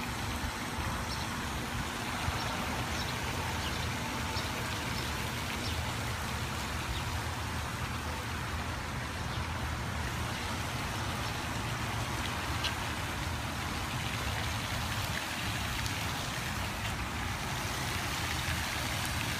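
Steady outdoor background noise: a low rumble with an even hiss over it, like distant road traffic, with a few faint scattered ticks.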